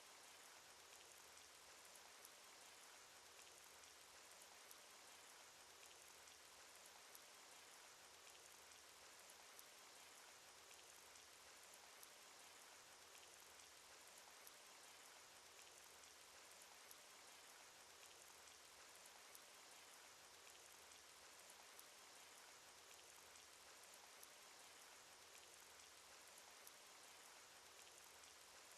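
Faint, steady rain sound effect: an even hiss of rainfall with scattered small drop ticks.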